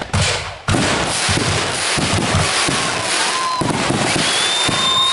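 Fireworks going off: a couple of sharp bangs, then from under a second in a sudden, dense crackling that keeps going. Whistling tones sound through the crackle in the second half.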